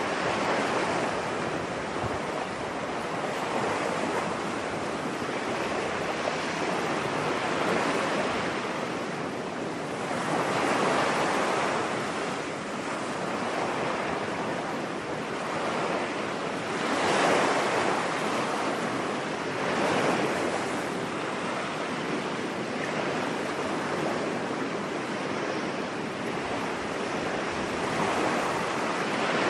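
Ocean surf washing onto a beach, a steady rush of breaking waves that swells and falls back every few seconds.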